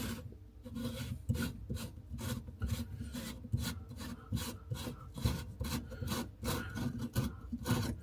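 A hand tool scraping or rubbing at a basin fitting in quick, even strokes, about three a second.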